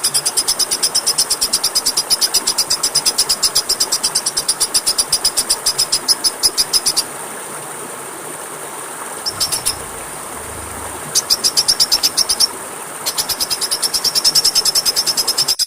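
A small bird's rapid, high-pitched trill of about nine even notes a second. It breaks off for a couple of seconds midway and again briefly later. Under it runs a steady hiss and a thin, steady high whine.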